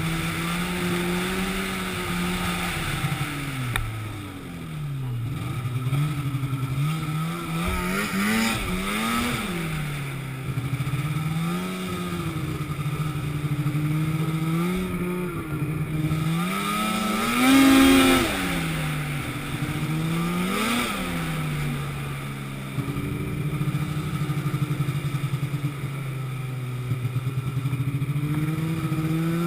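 An engine running, its pitch dipping and climbing again and again as the revs change, with one louder, higher rev about two-thirds of the way through.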